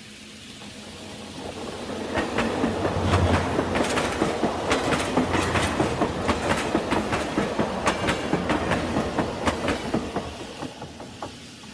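Lionel O-scale model train running past on its track, its wheels clicking rapidly over the rail joints; it grows louder, passes close, and fades away near the end.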